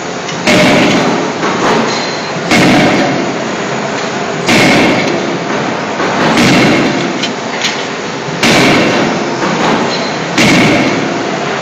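16 kJ CNC hydraulic closed-die forging hammer striking, about one blow every two seconds, six in all. Each blow is a sharp impact that rings briefly, over a steady machinery noise.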